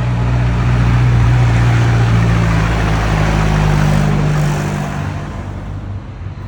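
Tractor engine running as it passes close by, loud for the first few seconds and then fading away over the last two.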